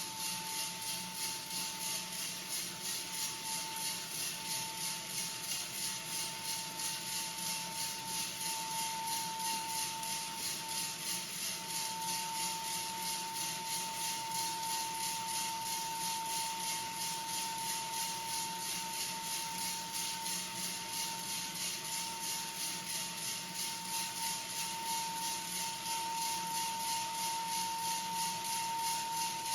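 A steady hooting whistle from a homemade coffee-roaster exhaust device as it draws air, creeping slightly up in pitch, over an even rhythmic rattle about twice a second.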